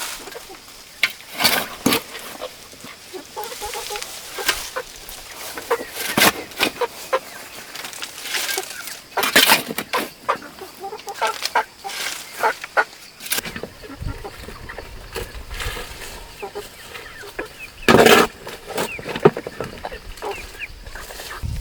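Chickens clucking, with intermittent sharp knocks and scrapes of hand work going on nearby.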